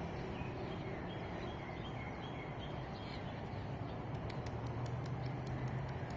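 Birds chirping in short repeated notes over a steady low hum of distant traffic. From about four seconds in, a fast run of very high ticks, about five a second, joins them.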